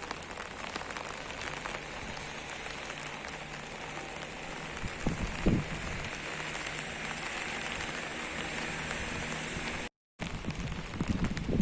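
Steady rain falling on hard surfaces, with many separate drops ticking, and one louder low thump about five seconds in. The sound cuts out for a moment near the end.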